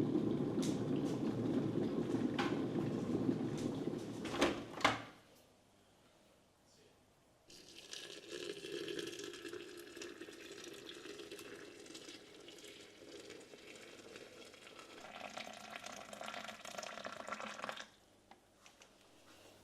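Water running, like a tap filling a sink, for about ten seconds and then shut off abruptly. Before it there is a low rumble that ends in two knocks about 4.5 seconds in.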